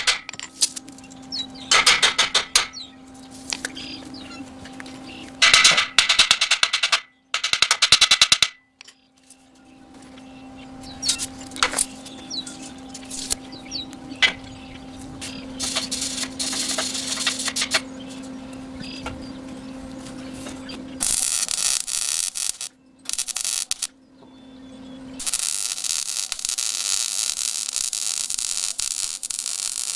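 Electric arc welding: repeated bursts of welding-arc crackle, from under a second to about five seconds long, with pauses between, the longest near the end, over a steady low hum.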